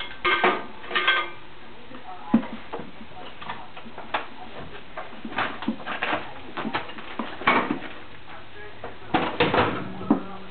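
Irregular light knocks and clinks of hard household objects being handled and set down, like dishes or utensils, some ringing briefly.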